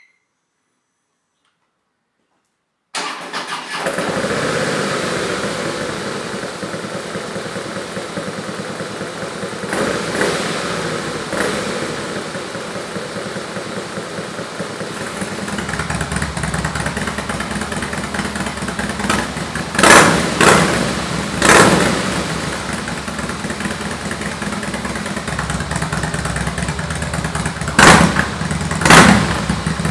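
Harley-Davidson Breakout V-twin with a Jekill & Hyde flap-valve exhaust, started about three seconds in and then idling. About halfway through the exhaust note turns deeper and fuller, as the valve switches to its loud setting. It is blipped with short revs several times, a pair near the end the loudest.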